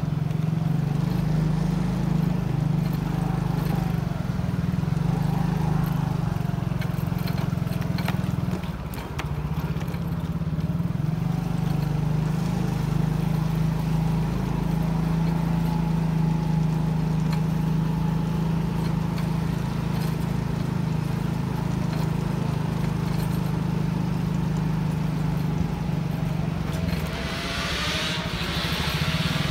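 Motorcycle engine running steadily under way, with a short dip in level about eight and a half seconds in. A brief hiss rises near the end.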